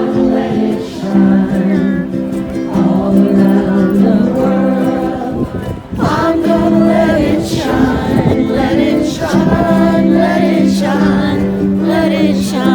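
Group of voices singing over long held chords.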